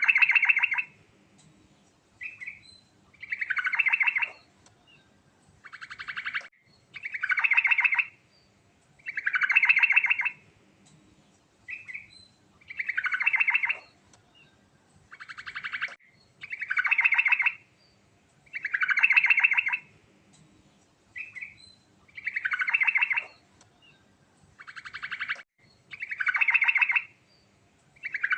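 Sooty-headed bulbul singing: a loud rapid trilled phrase about a second long repeats every two to three seconds, with short single chirps in between.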